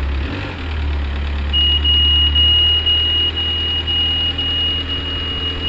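A continuous, high-pitched electronic warning tone at a single steady pitch starts about one and a half seconds in. Under it is a low, steady engine-like hum that fades out about halfway through.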